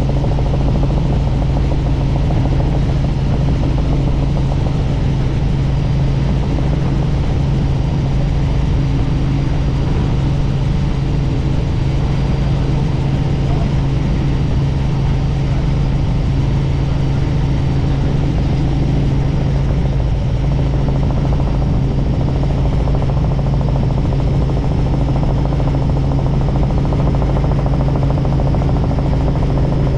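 Helicopter in flight: steady engine and rotor noise with a strong constant low hum.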